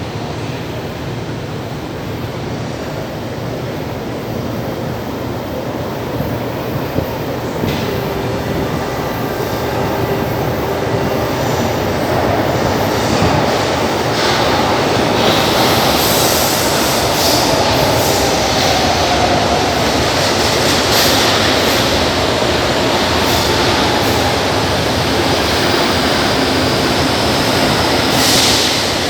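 A São Paulo Metro train running through the station, its noise growing louder and brighter about halfway through.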